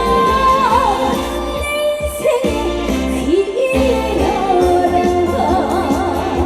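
A female trot singer singing live over a band, her held notes wavering with vibrato.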